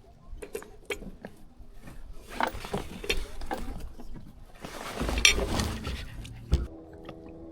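Sailcloth rustling and crinkling as a sail is handled and pulled down during a headsail change, with scattered clicks and knocks and one sharp thump near the end.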